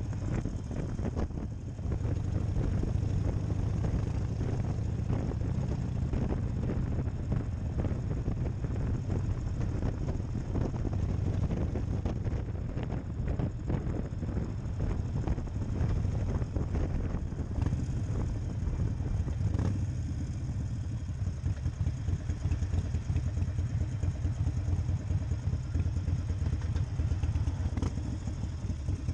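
Harley-Davidson Nightster 1200's air-cooled V-twin engine running with a steady, fast-pulsing low note. About two-thirds of the way in the sound settles into a lower, lumpier pulsing, as the engine does at idle.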